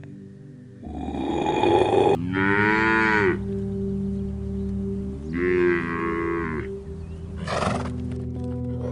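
Cow mooing twice, each call about a second long and rising then falling in pitch, over soft background music with long held notes.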